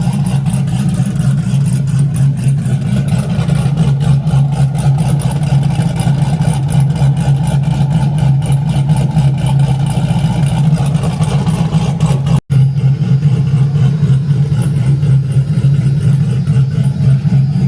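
Big-turbo LS V8 running on E85, idling steadily with a choppy cammed idle as it warms up after a cold start. The sound drops out for an instant about twelve seconds in.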